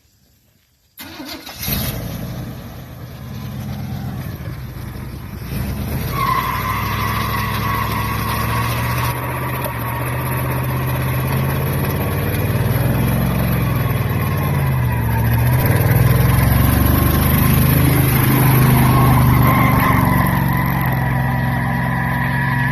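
1991 Chevy pickup engine breathing through Cherry Bomb glasspack mufflers, cutting in abruptly about a second in and revving hard. A steady high squeal joins about six seconds in and holds to the end: the tires spinning in a burnout.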